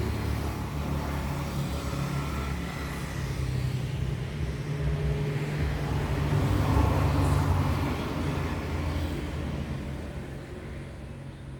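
A motor vehicle's engine running nearby, growing louder to a peak about seven seconds in and then fading away, as when a vehicle passes by.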